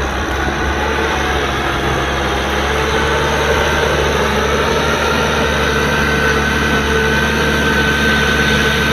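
Kubota M6040SU tractor's diesel engine running steadily, with a faint high whine joining in about halfway through.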